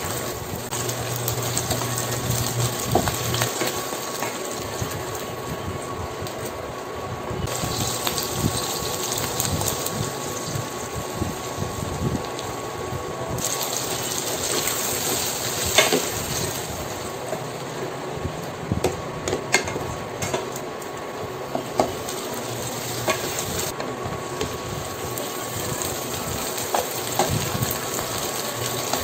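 Shell-on shrimp frying in oil with garlic and onion in a stainless steel pot: a steady sizzle, broken by scattered knocks and scrapes of a wooden spatula turning them.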